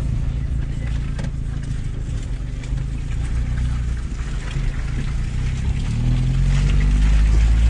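Off-road 4x4 vehicle's engine running steadily, then revving up and growing louder about six seconds in as the vehicle pulls away.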